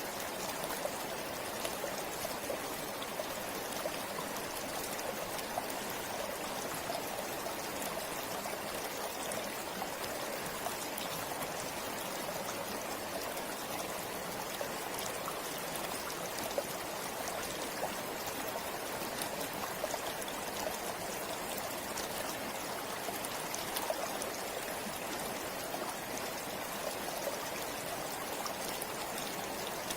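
Forest river flowing steadily, water rushing and splashing over stones.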